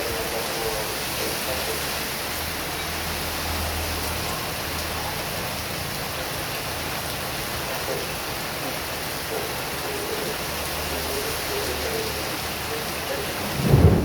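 Heavy rain pouring steadily, with a brief low thump near the end.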